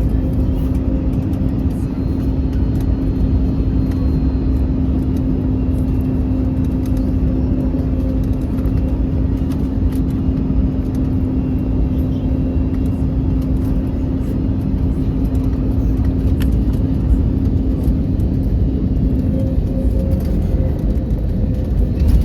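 Airbus A321neo cabin noise during taxi after landing: a steady low rumble of engines and airflow, with a steady hum that stops about 20 seconds in and faint rattles and clicks from the cabin.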